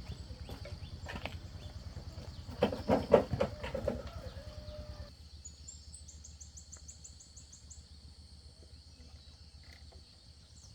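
Scattered knocks and clatter over a low, rapid pulsing hum, loudest about three seconds in. About five seconds in, this cuts to quieter outdoor sound with a short, rapid, high-pitched trill.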